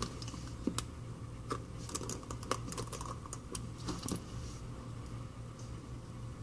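Small, light clicks and taps of hand tools and tiny metal parts on an iPhone's internals, most of them in a quick run in the middle. A steady low hum runs underneath.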